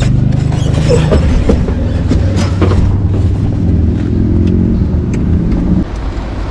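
Small off-road vehicle engine running at a steady pitch while riding, with scattered clicks and knocks over it; the engine sound drops in level shortly before the end.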